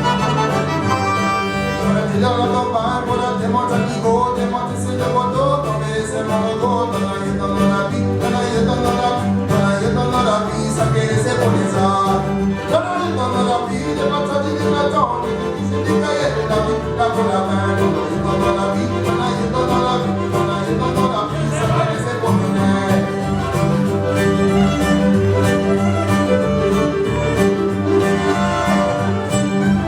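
A Cajun and old-time string band playing live: fiddle carrying the tune over strummed guitar and a steady bass line.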